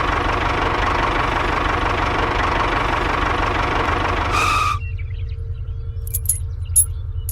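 A small engine running with a steady, fast low throb. A loud hiss over it cuts off suddenly about four and a half seconds in, leaving the engine and a few light clicks.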